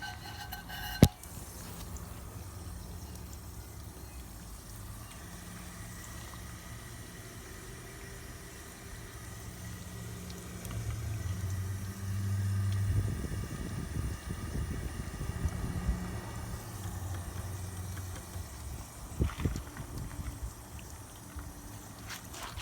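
1996 Crane Galaxy toilet: a sharp click about a second in, then water running steadily into the tank as it refills, with a low hum. The water grows louder and more turbulent partway through, and there are a couple of small knocks near the end.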